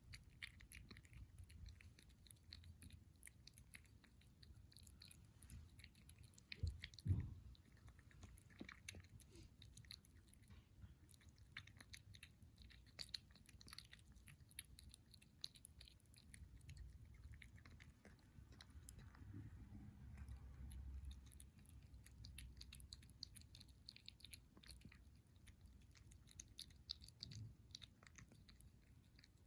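A kitten chewing and eating food at close range: a quiet, continuous run of small wet clicks and crunches. There are a couple of louder knocks about seven seconds in.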